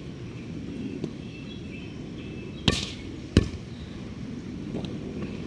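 A volleyball being struck: two sharp slaps of hand on ball about 0.7 s apart near the middle, over a steady low outdoor rumble.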